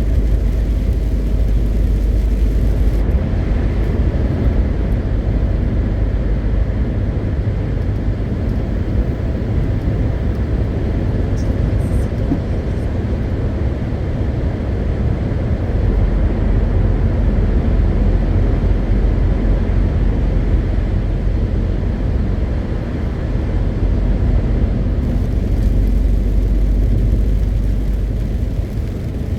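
A MAN TGX 520 truck's straight-six diesel and its tyres running steadily on the road: a continuous low rumble with no gear changes or pauses.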